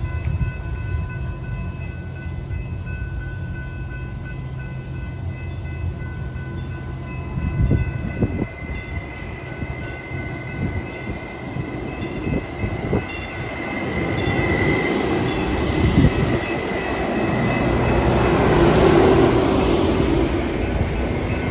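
A train at a station platform: a steady low rumble with a faint whine, then wheel and rail noise swelling to its loudest about three-quarters of the way through.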